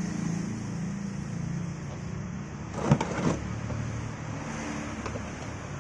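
Steady low running hum from a Daihatsu Gran Max. A brief clatter, the loudest sound, comes about three seconds in.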